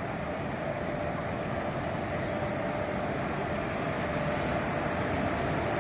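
Electric locomotive hauling a passenger train slowly along a platform: a steady running rumble with a constant hum on top, growing slightly louder as it comes closer.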